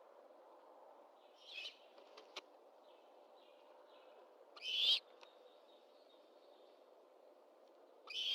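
Great horned owl calls at the nest: three short, raspy screeches about three seconds apart, over a steady faint hiss.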